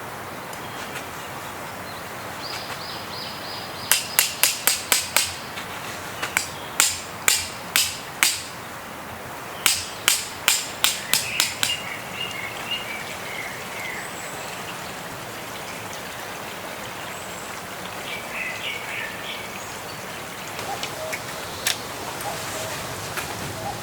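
Hammer striking in three quick runs of blows, about five blows a second, over a steady rush of wind, with birds chirping between the runs.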